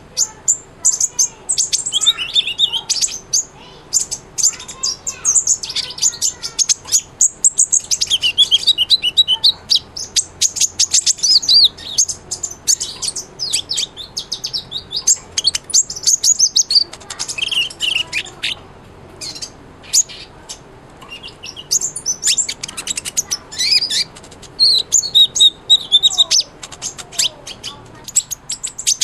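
A sunbird of the kind sold as 'kolibri ninja' singing a fast, busy run of high chirps, ticks and trills, broken by a few short pauses.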